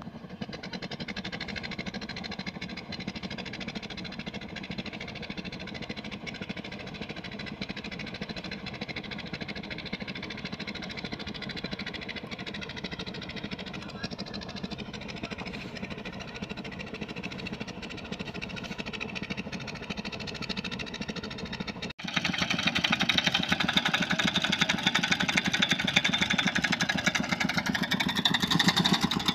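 Combine harvester engine running steadily. About 22 seconds in, the sound cuts abruptly to a louder, harsher run of the engine.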